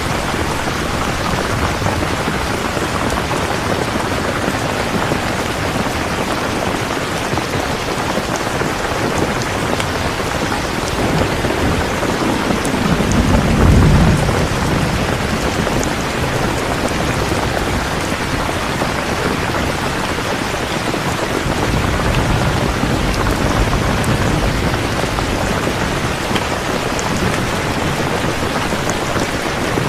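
Steady rain falling, with low rolls of thunder: one swells about halfway through and another, broader one follows later.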